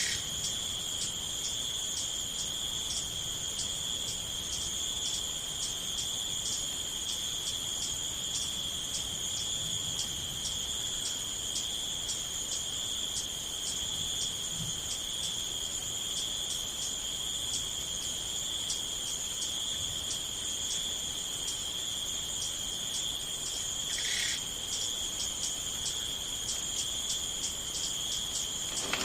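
Crickets chirping steadily: a continuous high trill with an even pulse running through it. A short, lower call sounds once, near the end.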